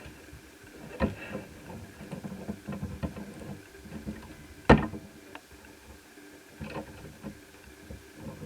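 Handling noises from laptop disassembly: small clicks, taps and scrapes of a screwdriver and metal and plastic parts, with one sharp click about halfway through.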